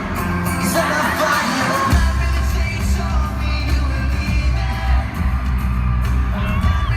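Live pop-rock band music with singing, heard loud through a phone mic in the audience, with fans yelling and whooping. The low end drops out for about the first two seconds, then the full band comes back in.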